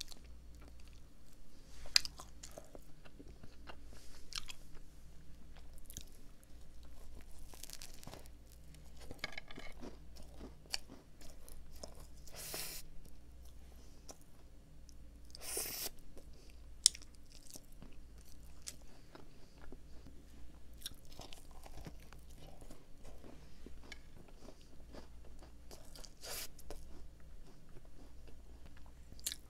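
Close-up chewing and biting of a chocolate-coated doughnut topped with a whole chocolate chip cookie: soft crunches and mouth clicks, with a couple of louder crunches around the middle, over a faint low hum.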